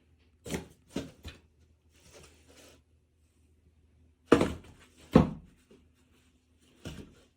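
Knocks and thuds of objects being handled: three light knocks in quick succession, a soft rustle, then two loud thuds about a second apart and a lighter knock near the end.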